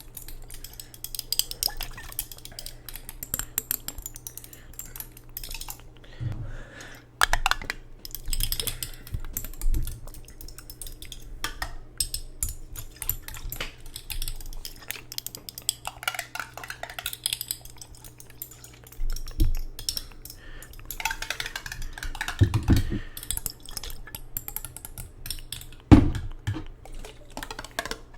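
ASMR tapping and clinking on a glass jar of water: irregular light taps and clicks, with a few louder knocks late on.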